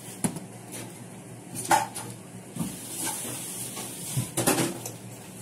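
Crisp crunches of a raw bell pepper being bitten into and chewed, a handful of short sharp cracks spread through, the loudest just under two seconds in.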